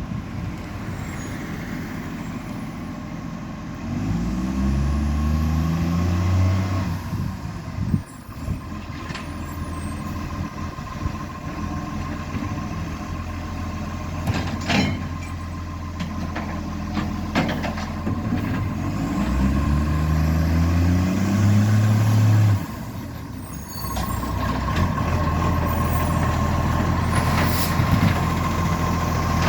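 Engine of a vehicle with an exhaust leak idling, revved up twice and held for a couple of seconds each time, about four seconds in and again past the middle, the second rev dropping back to idle sharply. A few sharp clicks are heard between the revs.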